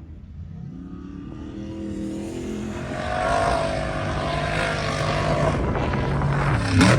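An off-road truck's engine approaches and grows steadily louder, revving higher as it drives up the dune. It peaks near the end with a sharp shift in pitch.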